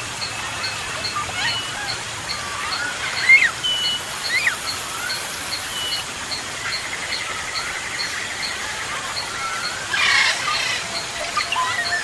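Several birds calling over a faint steady hiss: whistled notes sliding up and down, a high tick repeating about three times a second, and a louder, harsher call about ten seconds in.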